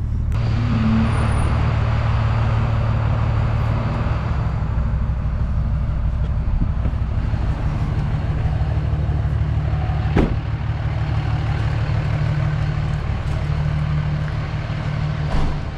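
Cummins 5.9-litre inline-six turbo diesel of a 2005 Dodge Ram 2500 running steadily at idle through its repaired exhaust, with one short sharp click about ten seconds in.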